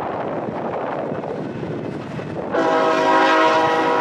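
BNSF freight train's diesel locomotives rolling past close by: a steady rumble of engines and wheels on the rails. About two and a half seconds in, a train horn starts suddenly, a loud steady chord of several notes that is still sounding at the end.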